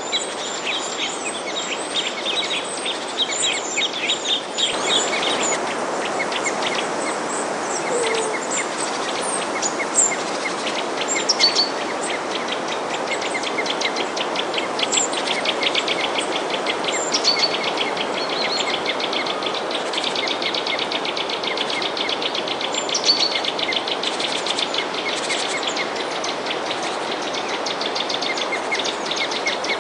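Many small songbirds chirping and twittering in quick, overlapping calls and trills, over a steady hiss that grows fuller about five seconds in.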